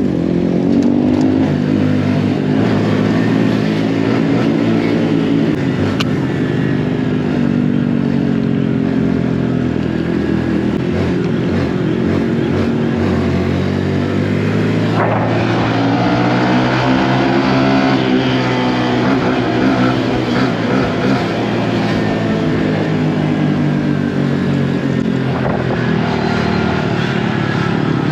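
Honda Grom's single-cylinder engine running under way, its pitch rising and falling with the throttle, with a drop and a fresh climb about halfway through. A steady rush of wind and road noise runs under it.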